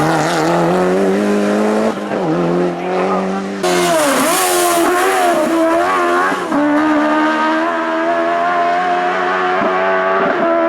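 Race car engine being driven hard up a hill-climb course, its pitch rising under acceleration and dropping sharply at a gear change about two seconds in. It then climbs again, turns harsh and wavering for a few seconds, and settles into a steady high-revving note.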